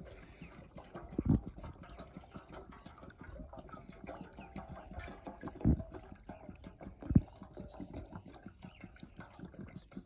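Small wet clicks and splashes of water, with a few louder low thumps.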